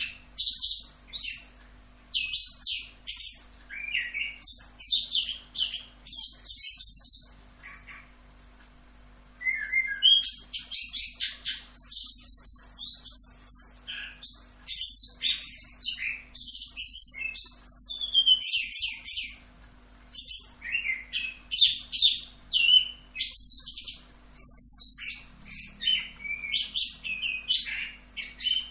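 Chestnut-capped thrush (anis kembang) singing a long, rapid run of varied high whistles and chirps, the continuous 'rolling' song, broken by short pauses about 8 seconds in and again about 20 seconds in.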